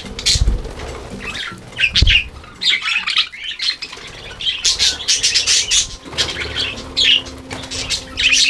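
A budgerigar flock chattering and squawking in rapid, overlapping bursts, with wings flapping as birds fly about. There are two low thumps, about half a second and two seconds in.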